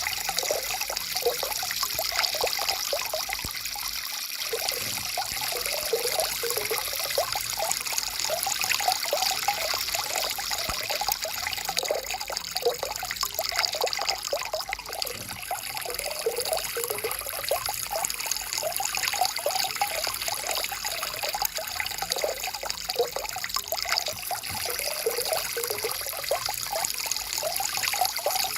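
Stream water trickling and gurgling in a steady, continuous flow.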